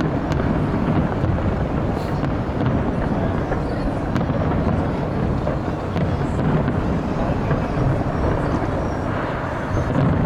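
Distant New Year's fireworks display heard as a continuous low rumble of bursts, with crowd noise mixed in.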